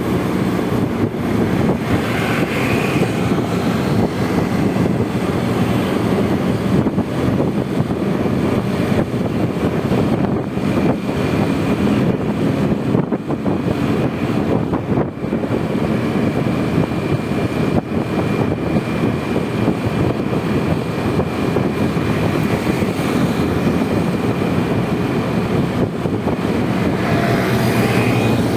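Honda Vario 125 scooter's single-cylinder engine running while riding, under a steady rush of wind and road noise. The engine hum stands out most near the start and near the end.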